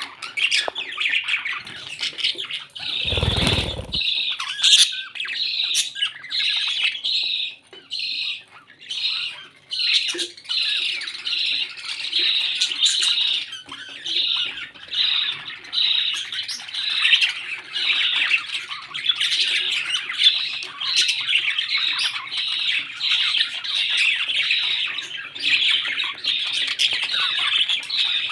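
Pet parrots chattering and squawking nonstop in quick, repeated calls, with a low thump about three seconds in.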